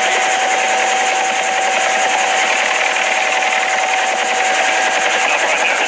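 Helicopter running, a steady loud noise with a constant whine and a fast flutter.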